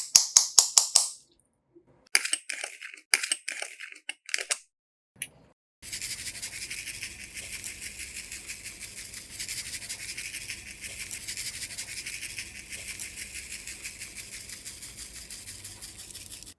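Slime being squeezed and worked by hand, giving sharp crackly clicks in short bursts, then a dense, continuous crackling from about six seconds in.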